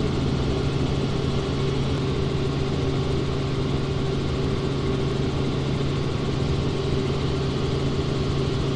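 Helicopter cabin noise: the engine and rotors make a steady drone with a constant low hum.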